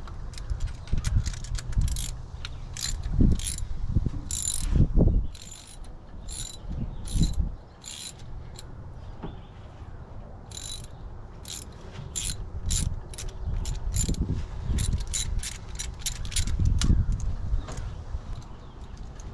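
Hand socket ratchet clicking in irregular short runs, with low thumps and clunks of handling, as bolts are worked loose to remove the cylinder heads from a 1969 Ford Mustang engine.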